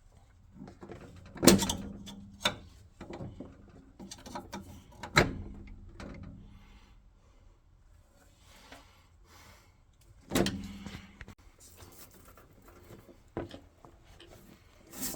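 Knocks, clicks and scraping of water pipework and fittings being handled and clipped into an Ariston boiler as the return pipe is pushed back into place. Three sharp knocks, each with a short ring, stand out about a second and a half, five and ten seconds in, with lighter clicks and handling in between.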